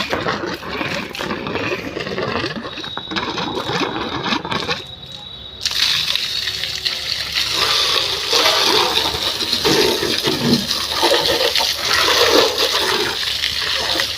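Water spraying from a washer machine's hose onto a motorcycle. After a brief lull about five seconds in, the spray comes back louder and hissier and keeps going.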